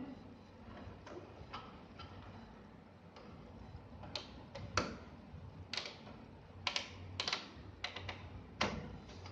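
Irregular light clicks and taps of small plastic parts being handled and fitted together: the gear and clutch-drive assembly of an HP LaserJet 1005 laser printer being reassembled with a replacement gear socket. The clicks are faint at first and come louder and more often from about four seconds in.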